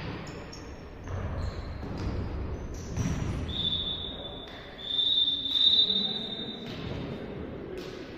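Indoor volleyball play: several sharp ball strikes spaced a second or two apart, and a high thin squeal held for about three seconds in the middle.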